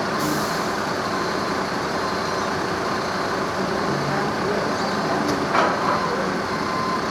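Steady engine rumble, with a short high hiss just after the start and a sharp click about five seconds in.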